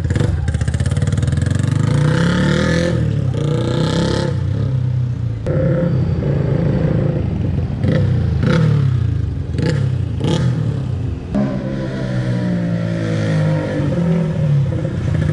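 Tuned motorcycle with a loud CJ Ipoh racing exhaust revving hard through the gears on a dyno. The pitch climbs in each gear and breaks off briefly at each of several shifts.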